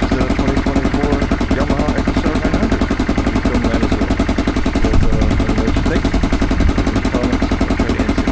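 2001 Yamaha Grizzly 600 ATV's single-cylinder four-stroke engine idling steadily on freshly changed oil, with an even, rapid pulse, briefly a little louder about five seconds in.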